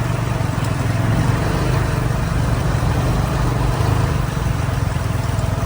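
Motorcycle engine running steadily under way, with a low, even pulsing rumble and rushing wind and road noise, heard from the bike itself.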